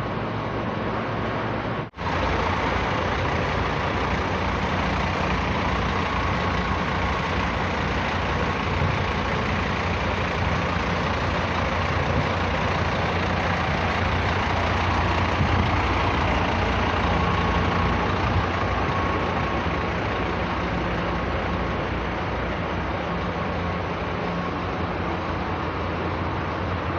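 Diesel engine of a Comil Campione 3.45 coach running steadily, a low hum under a dense mechanical and road noise. The sound drops out for an instant about two seconds in, then swells slightly about halfway through.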